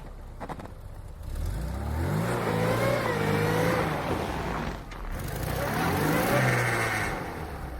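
Lada Niva engine revving hard under full throttle, its pitch climbing about a second in, dipping briefly near five seconds and rising again, as the car strains to reverse in snow. With the front differential broken it drives on the rear wheels only, and a rear tyre spins.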